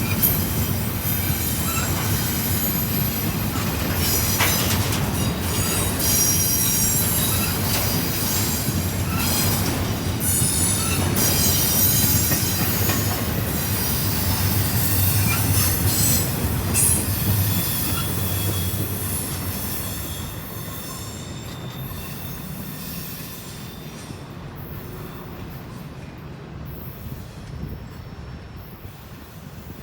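Freight cars of a Norfolk Southern intermodal train rolling past, steel wheels squealing on the rail over a steady rumble. About two-thirds of the way through the squeal dies out and the rumble fades as the train moves away.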